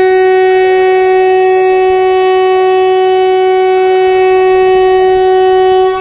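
Indian Railways locomotive air horn blowing one long, steady note as the Intercity Express departs, cutting off near the end. The horn is the train's departure signal.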